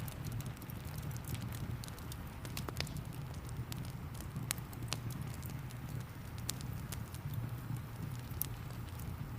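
Wood fire crackling, with scattered sharp pops and snaps over a steady low rumble, mixed with the even hiss of rain.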